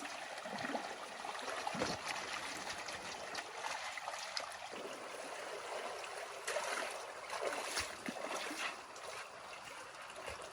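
Water trickling and splashing, with a few scattered knocks.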